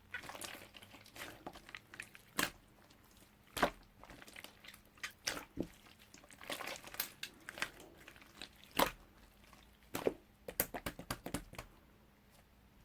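Hands working modelling clay and small crafting tools on a tabletop: irregular clicks, taps and soft crunching and crinkling.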